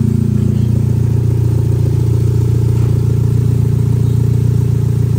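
Chevrolet Cruze engine idling steadily and evenly, freshly rebuilt with new pistons and rings and a replacement cylinder head, its earlier knocking and shaking gone.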